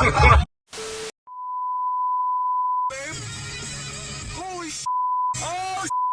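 Censor bleep: a steady, pure tone near 1 kHz that sounds for about a second and a half, then cuts in and out in short stretches between bursts of voice and noise.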